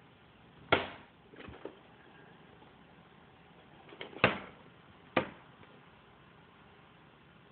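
Bird knocking on a window pane with irregular sharp knocks, three loud and a few fainter, as it attacks its own reflection in semi-mirror window film, taking it for a territorial rival.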